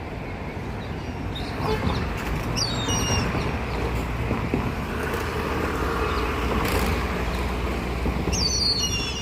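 Grey hornbills calling high overhead: a few squealing calls about two and a half seconds in and a louder run of calls near the end. Under them a low engine rumble from a passing vehicle swells through the middle.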